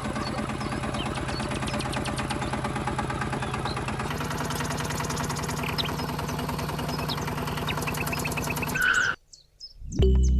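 A DIY mini tractor's small motor running steadily with a fast, even chatter, which cuts off about nine seconds in. Birds chirp over it.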